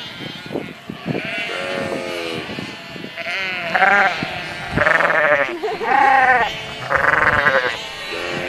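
Several sheep bleating, one call after another. The first calls are lower, and from about three seconds in come louder, higher bleats with a quavering, wavering pitch.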